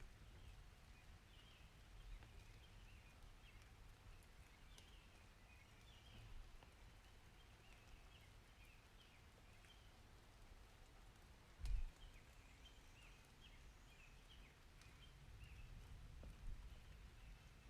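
Faint outdoor nature ambience: a low rumble under a soft steady hiss, with many small high chirps repeating throughout. A single sharp knock comes about twelve seconds in.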